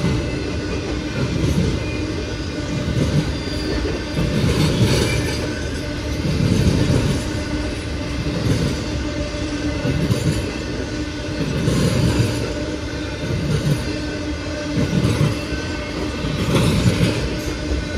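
CSX freight train rolling past: a steady rumble of cars on the rails, with a heavier clatter of wheels coming round every second or so.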